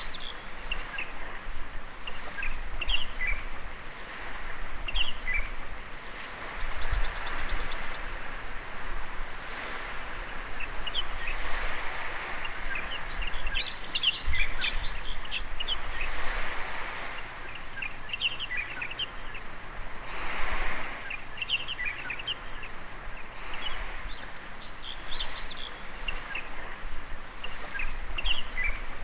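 Birds chirping in short high calls again and again, with a quick run of repeated notes about seven seconds in, over waves washing on the shore that swell and ease every few seconds.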